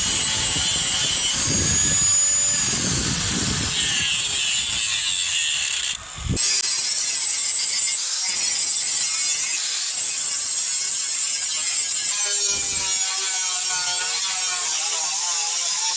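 Steel knife blade being shaped by abrasion: a continuous rasping of metal on metal, with stroke-like pulses at first and a brief break about six seconds in.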